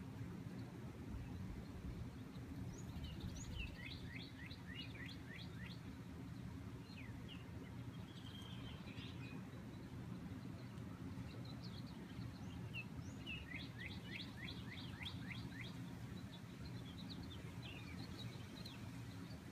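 Birds singing: twice a bird gives a quick run of about ten sharp, downward-slurred whistled notes, once a few seconds in and again past the middle, with scattered single chirps between. A steady low hum lies underneath.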